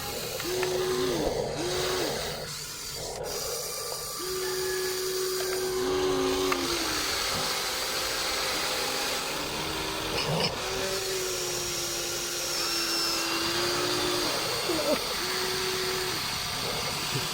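Electric motors of Huina radio-controlled toy excavators whining in short runs, starting and stopping again and again as the booms and buckets are worked, each run holding a steady pitch.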